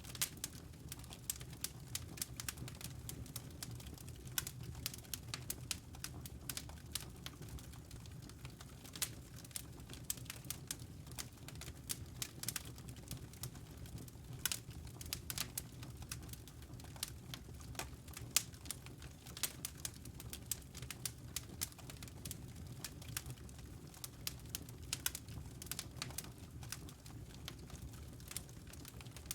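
Wood fire burning in a fireplace: dense, irregular crackling, with small pops and snaps several times a second over a low, steady rumble of the flames.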